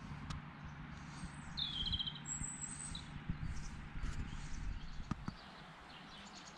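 Outdoor woodland ambience with birds chirping: a short rapid bird trill about two seconds in, followed by a higher thin call, over a steady low rumble. A couple of sharp clicks come near the end.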